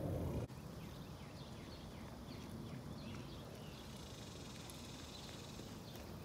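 A low rumbling noise stops abruptly about half a second in, leaving an outdoor background in which a bird gives a quick series of short, falling chirps. Near the end come the first soft hoofbeats of a horse on an arena's sand footing.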